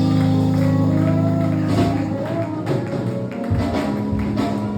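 Church band music: a held low chord, then drum strikes start about two seconds in, with melody notes over them.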